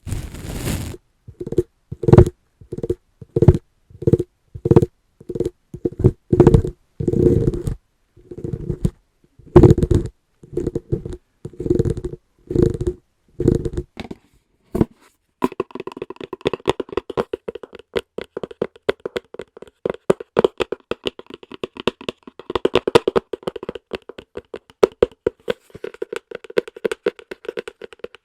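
Fingers tapping on an object that rings hollow: slow, evenly spaced taps, about one and a half a second, for the first half, then a fast continuous flurry of fingertip tapping.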